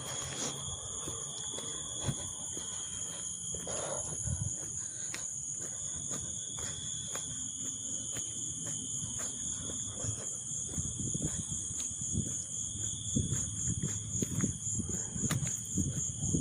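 Insects buzzing steadily in a high chorus, with footsteps on a path as low, uneven thumps that grow louder and more frequent in the second half.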